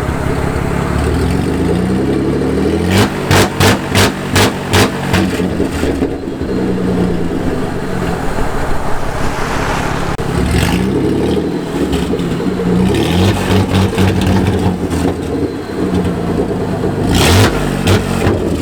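Truck engine revved repeatedly against a two-step rev limiter set near 2,000 RPM, the revs climbing and then held back. Near the start a run of about seven sharp stutters, about two a second, is the limiter cutting in, with further stutters later.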